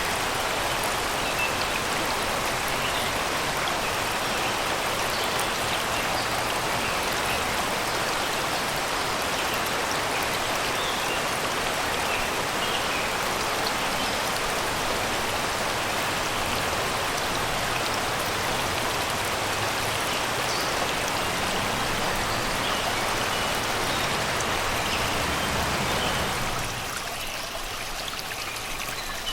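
Shallow river water rushing and babbling over rocks and stones, a steady loud wash, with small birds chirping here and there in the forest. About three seconds before the end the water gets quieter and its low rumble drops away.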